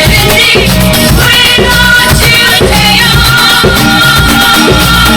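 A drum kit played along to a recorded pop song with singing.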